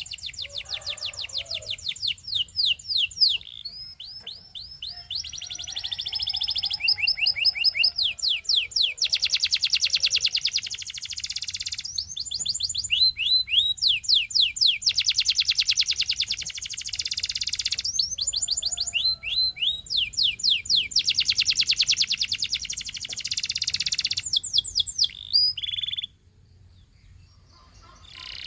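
Canary singing a long song of rapid trills and rolls, each a fast run of the same high note repeated many times before switching to a new one. The song stops abruptly near the end.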